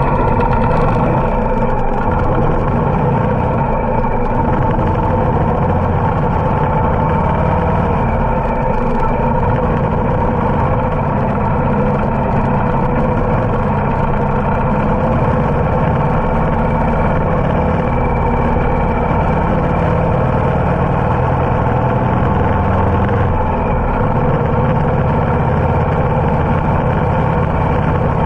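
Harley-Davidson motorcycle engine running steadily while riding.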